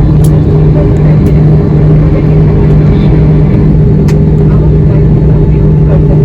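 Airliner jet engines heard from inside the cabin: a loud, steady drone with a constant low hum, during the approach into land.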